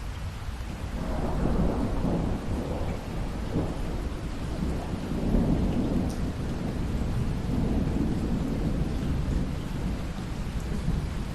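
Steady rain with a long roll of thunder that swells about a second in and rumbles on in waves through the rest.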